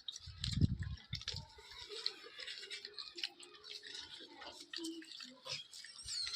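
Irregular small clicks and scratchy crunching as food is handled and eaten, with a low thump about half a second in.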